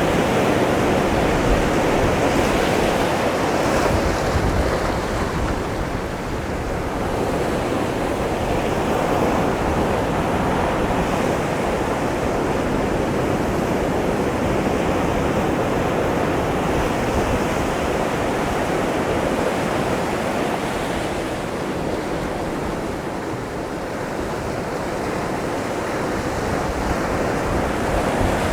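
Ocean surf breaking against a rocky shoreline: a steady wash of churning water that swells and eases slowly, with some wind rumbling on the microphone.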